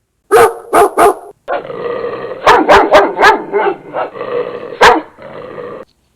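Dog barking: three quick barks, then a run of repeated barks that cuts off suddenly near the end.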